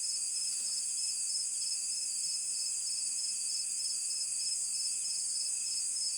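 A steady, high-pitched chorus of crickets and other night insects chirring without a break.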